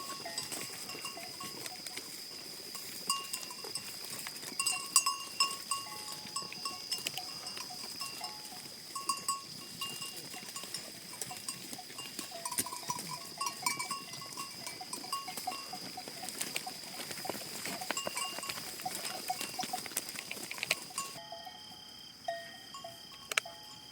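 Many livestock neck bells clinking and ringing irregularly as a flock moves and grazes, over a steady high-pitched whine in the background. The bell pattern changes near the end.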